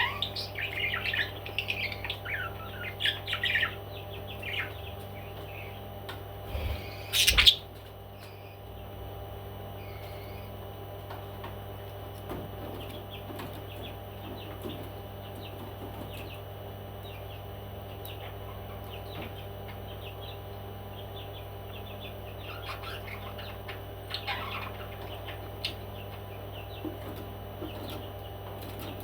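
Pet parrots chirping and tweeting, busily for the first few seconds and then only now and then. A single loud, brief noise comes about seven seconds in. A steady low hum runs underneath.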